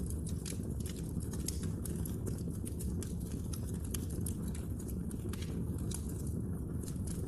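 Wood fire burning in a fireplace: a steady low rumble of flames with frequent irregular sharp crackles and pops of the burning logs.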